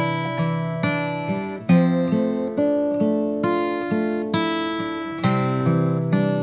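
Acoustic guitar music, strummed and picked chords with a fresh attack about every half second.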